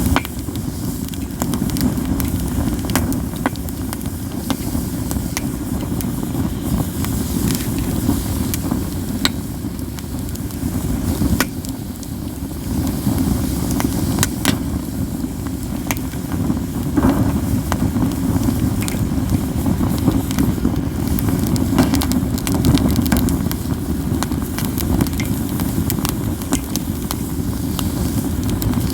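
Katsura firewood burning, crackling constantly with frequent sharp snapping pops scattered at irregular intervals over a steady low rushing of the flames.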